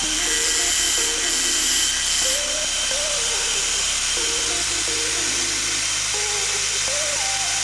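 A small power tool running with a steady hiss and high whine, most likely grinding a drill bit, under a light background melody.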